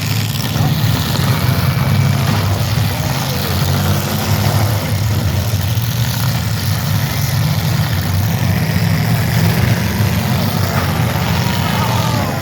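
Demolition derby car engines running, a steady deep engine drone with no sharp crashes.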